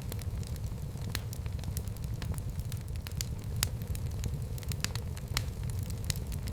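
Fire burning in a fireplace: a steady low rumble of flames with irregular sharp crackles and pops, a few each second.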